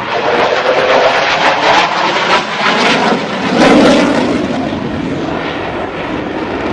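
Loud airplane engine noise from an aircraft flying by, swelling to its loudest a little past halfway and easing off after.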